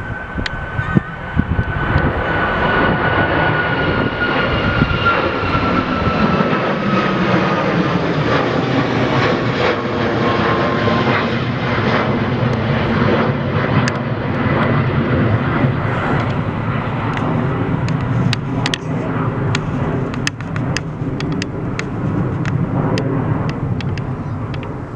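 Jet airliner passing close: the engine roar builds about two seconds in and holds steady, with a high engine whine that slowly falls in pitch as the aircraft goes by.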